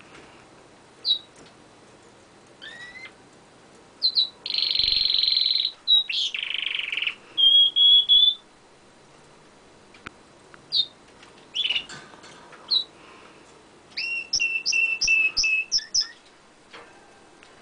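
Domestic canary singing: bursts of song with chirps, a long buzzy trill a few seconds in, a clear whistled note, and a quick run of repeated notes near the end, broken by short pauses.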